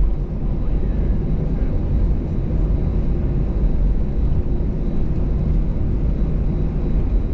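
Steady low rumble of cabin noise inside an Airbus A320-214 taxiing, its CFM56 engines running at taxi power.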